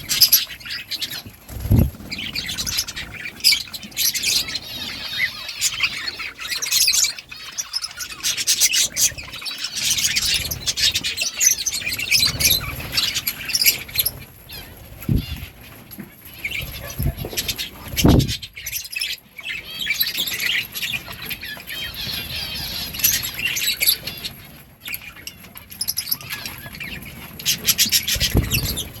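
A group of budgerigars chirping and chattering continuously, many overlapping tweets, with a few short low thumps.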